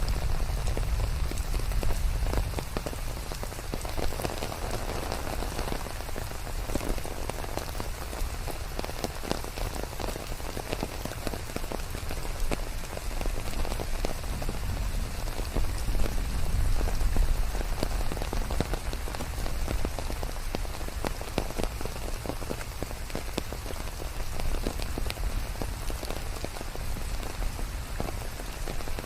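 Steady heavy rain falling on leaves: a dense hiss dotted with many separate drop hits, over a deep rumble, swelling and easing a little now and then.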